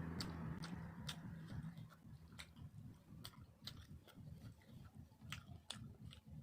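Close-up eating sounds: soft chewing with irregular sharp wet mouth clicks and lip smacks.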